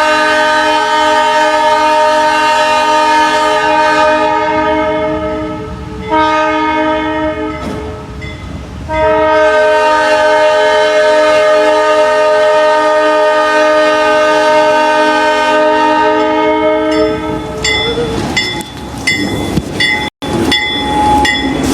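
Diesel locomotive's multi-tone air horn sounding a long blast, a short one and another long blast, the pattern of a grade-crossing signal. After the last blast the train rolls by with wheels clacking in a quick rhythm, with brief metallic ringing.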